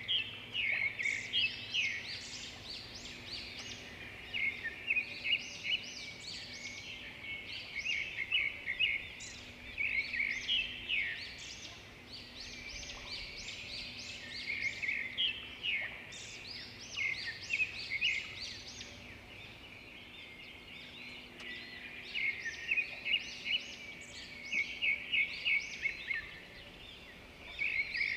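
Songbirds singing: bursts of quick, high chirps and trills every few seconds, with short lulls between.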